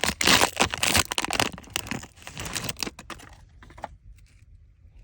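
Trading card pack wrapper being torn open and crinkled, a dense, rapid crackle that dies down about three seconds in, leaving a few light clicks and rustles as the cards are handled.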